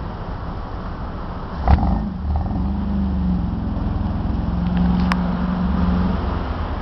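A car engine running, with a low rumble. Just under two seconds in there is a sharp knock, after which a steady engine note comes in louder.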